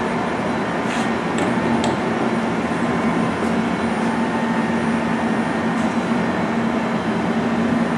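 Okuma LC-50-2ST CNC lathe running a program: a steady mechanical hum and noise, with a few short sharp ticks.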